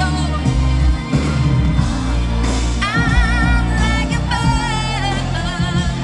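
Live pop music: a woman singing the lead over a band with a heavy bass line, holding long notes with vibrato about halfway through.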